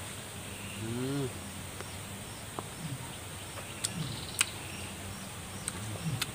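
Mouth sounds of a man eating a raw green lime slice dipped in chilli salt: a short rising 'mm' about a second in, then a few sharp chewing clicks and smacks. A steady high insect drone runs underneath.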